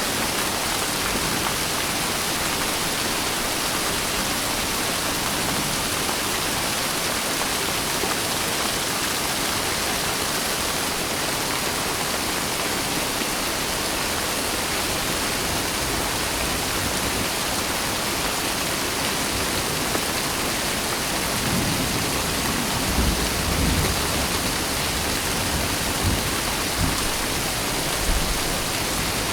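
Steady, heavy rain falling as a dense, even hiss. Near the end a few brief low rumbles rise under it.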